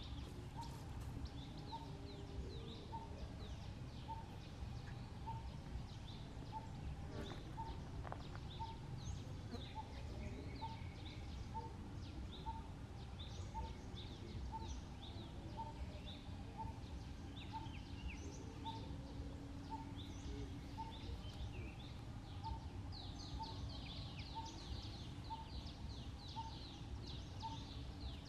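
Outdoor birdsong: one bird repeats a short single note about twice a second, steady throughout, while other birds chirp in quick high notes that grow busiest near the end. A low steady rumble of background noise sits under it.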